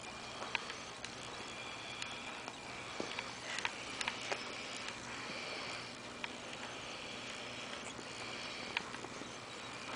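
Faint sniffing and scuffling of five-week-old Maltese-Yorkie (Morkie) puppies at play, with scattered small clicks.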